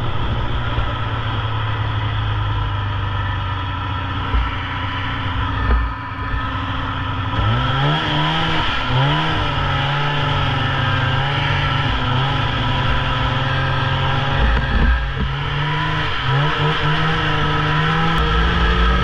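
Polaris Indy snowmobile engine running under way, steady at first, then revving up and easing off several times from about seven seconds in, the pitch rising and falling with the throttle.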